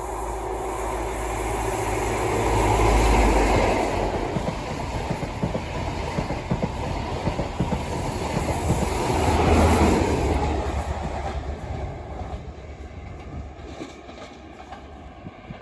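Diesel train passing, with a heavy low rumble and wheels clattering over the rails. It swells twice, then fades away over the last few seconds.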